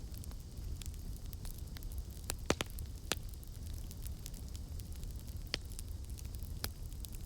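Campfire crackling: scattered sharp pops and snaps over a steady low rumble of the burning fire, with a cluster of louder pops a little past two seconds in.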